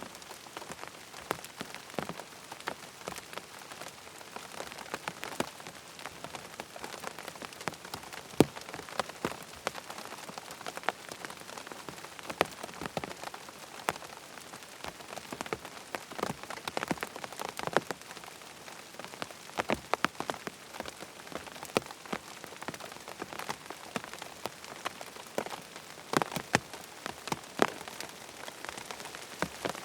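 Rain falling on a tent: a steady patter, with many louder single drops hitting at irregular moments.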